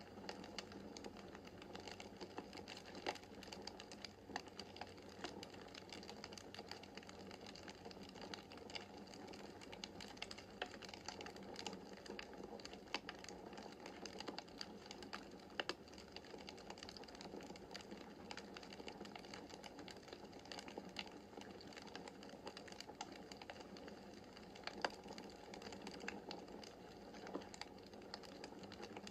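Wood fire crackling in a fireplace: a steady run of small crackles over a soft hiss, with a few louder sharp pops scattered through.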